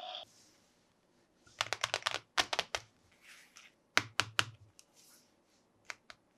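Plastic toy parts being handled, giving quick runs of sharp clicks and taps, three clusters of several clicks each, then a couple of single clicks near the end.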